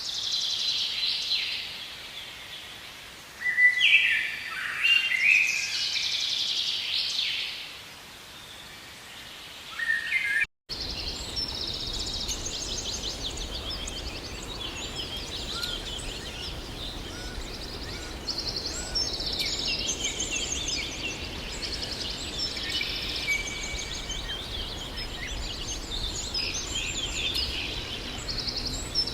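Wild birds singing and chirping. About ten seconds in the sound cuts out for an instant, and a busier chorus of rapid, repeated chirps from several birds follows over a faint low rumble.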